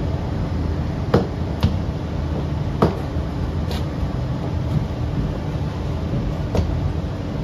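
Sydney Trains K set double-deck electric train heard from inside the carriage, a steady low rumble and hum as it runs, with about five irregular sharp clicks over a few seconds.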